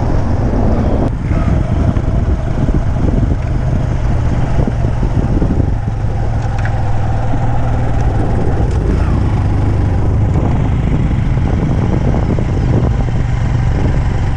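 A motor vehicle running steadily, a continuous low engine rumble with road and wind noise.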